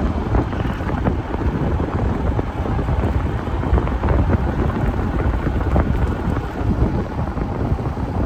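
Strong wind buffeting the microphone in a snowstorm: a loud, continuous low rumbling rush that rises and falls in gusts.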